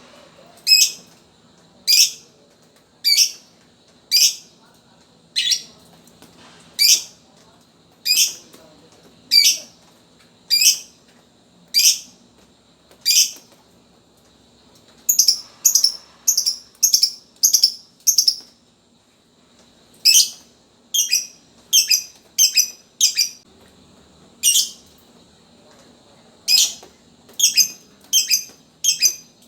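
Lovebird giving short, sharp, high-pitched chirps, one about every second at first, then in quicker runs of about two a second.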